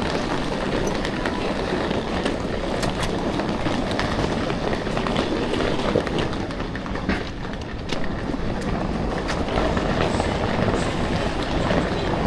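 Railway station noise: a steady rumble with scattered short clicks and knocks, of the kind PANN files under train sounds.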